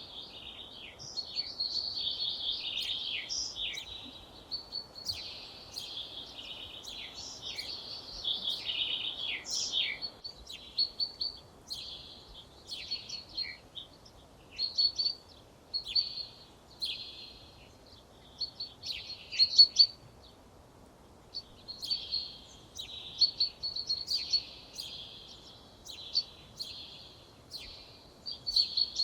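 Several songbirds singing at once, with overlapping chirps, trills and sharp high notes. The song is dense for the first ten seconds or so, then comes in shorter separate phrases, over a faint steady background hiss.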